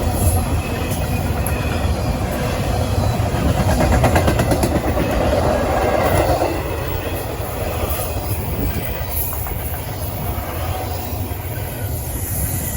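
Freight train rolling past: a steady low rumble of the cars on the rails with some wheel clatter, loudest about four to six seconds in.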